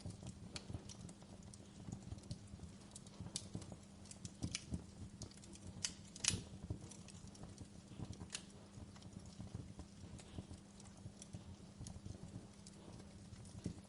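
Wood fire burning in a fireplace, crackling with irregular pops and snaps, the loudest pop about six seconds in, over a faint steady low hum.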